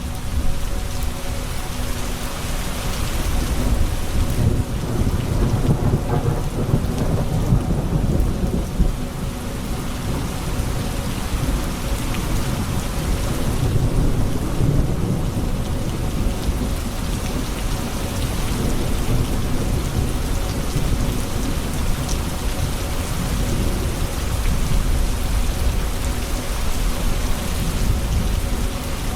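Thunderstorm: steady rain falling, with low rolling thunder that swells a few seconds in and again about halfway through.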